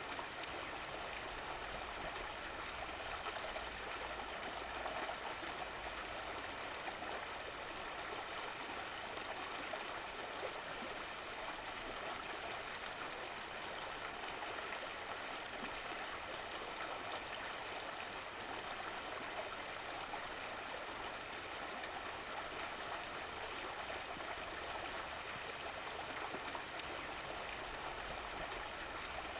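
Running water: a stream flowing steadily over stones with a continuous rushing and trickling.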